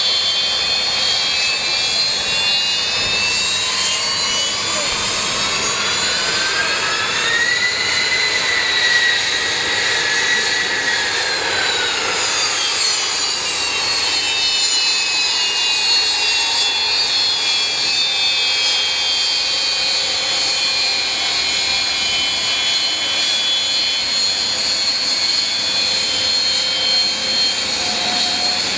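Aircraft jet engines running with a high whine made of several tones: the pitch rises over the first eight seconds or so, holds, falls back a few seconds later, then settles into a steady high whine.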